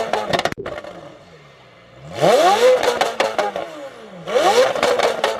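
A run of sharp cracks at the start, then a performance car engine revved twice, its pitch sweeping up and falling back each time.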